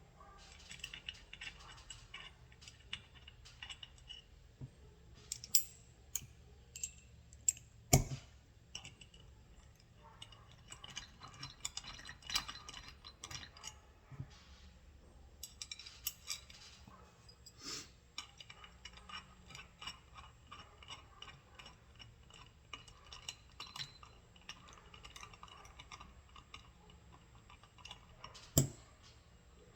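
Small metal parts of a starter motor being handled and fitted: a run of light clicks and clinks as the small screws are picked up and set in the housing, with two sharp metal knocks, one about eight seconds in and one near the end.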